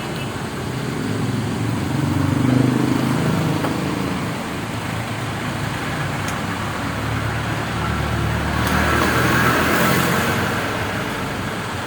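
Road traffic going by, with vehicles swelling and fading twice: about two and a half seconds in, and again around nine to ten seconds.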